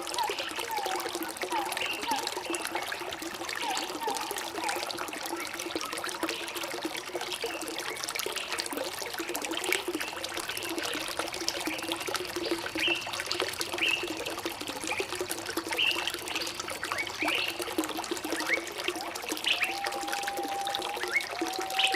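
Running water trickling and pouring steadily, with birds giving short chirps scattered throughout and a longer held whistle near the end.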